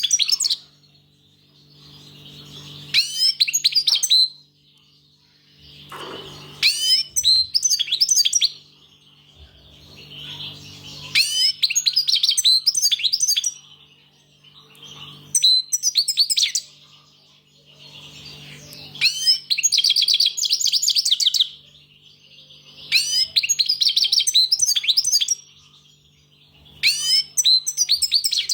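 European goldfinch singing: bursts of rapid, liquid twittering and trills about every four seconds, with softer twittering between them, over a steady low hum.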